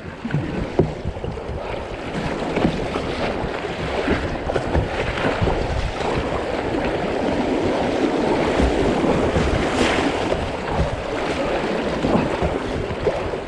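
Fast, high river water rushing around a kayak running rapids, with scattered splashes and wind buffeting the microphone.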